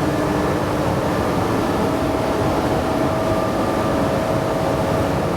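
Paint booth's ventilation plant running: the air-moving fans and diesel-fired heater burner give a loud, steady rush of air with a steady hum in it.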